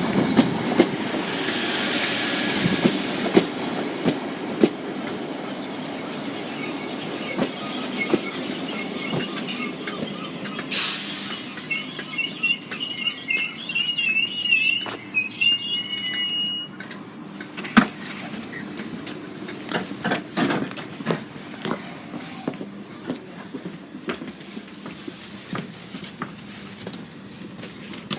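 Merseyrail electric commuter train pulling into the platform, running with a hiss. About halfway through its wheels or brakes give a wavering high squeal for a few seconds, then scattered knocks and clicks as it comes to a stop.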